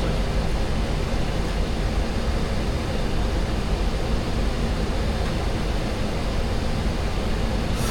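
Steady flight-deck noise of a Boeing 737-800 on approach: an even rush of airflow and engine noise, heaviest in the low end.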